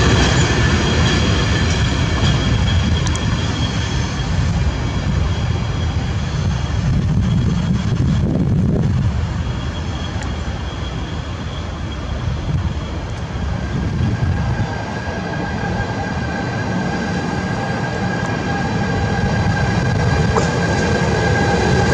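Freight train of covered sliding-wall wagons rumbling past on the rails, with high steady tones over the rumble. In the second half an electric locomotive comes nearer, the rumble and a whine growing louder towards the end.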